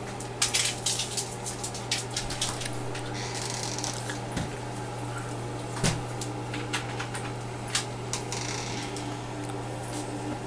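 Scattered light clicks and knocks, thickest in the first few seconds, over a steady low hum.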